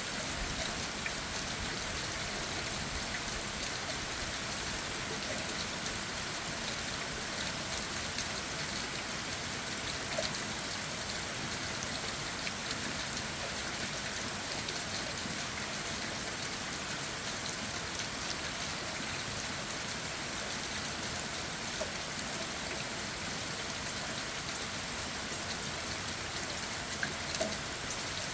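Steady rain falling on leaves and the ground: an even hiss full of small drop taps, with a few louder single drips standing out about ten seconds in and near the end.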